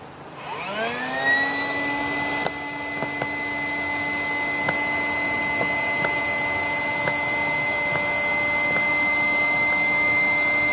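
Electric air pump switching on, spinning up quickly to a steady whine and running at a constant pitch while it inflates the inflatable boat's keel.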